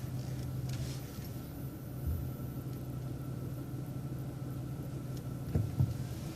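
City bus engine idling steadily, heard from inside the bus while it waits at a stoplight, with a couple of short knocks about five and a half seconds in.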